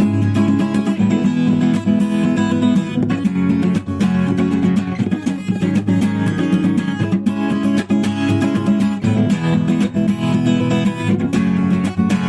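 Acoustic guitar strumming chords steadily, an instrumental passage between sung verses.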